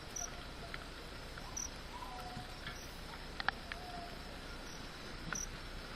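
Forest ambience: an insect gives short high chirps about once a second over a steady hiss, with a few faint clicks.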